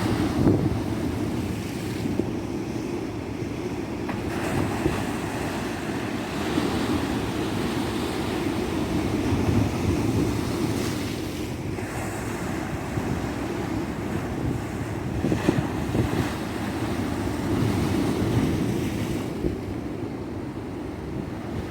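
Tropical ocean surf washing onto a beach, a continuous rush of breaking waves that swells and eases every few seconds.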